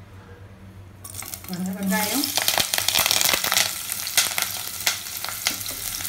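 Chopped onions, green chillies and curry leaves hit hot oil in a stainless steel pressure cooker and start sizzling about a second in, a loud crackling fry that carries on steadily.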